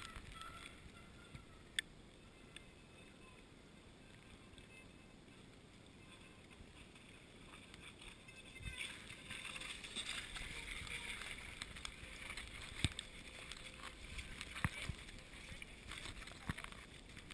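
Mountain bike ridden over a wet, muddy trail: a hiss of tyres through mud, with scattered sharp clicks and knocks from the bike. It grows louder about halfway through.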